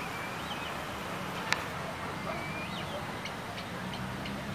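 A few short, high, rising-and-falling bird chirps over a steady low hum of distant traffic, with one sharp click about a second and a half in.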